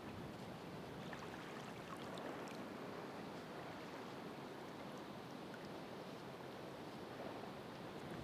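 Ocean waves washing ashore: a steady wash of surf with faint scattered ticks on top.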